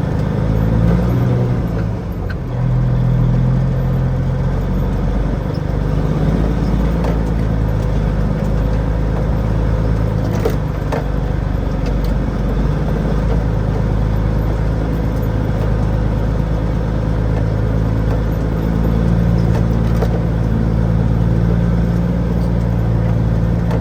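Heavy truck's engine running under load, its pitch rising and falling as the revs change while it tries to climb out of mud.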